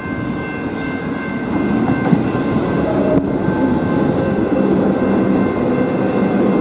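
Comeng electric suburban train running past at close range, its rail rumble growing louder about two seconds in, over a steady high whine.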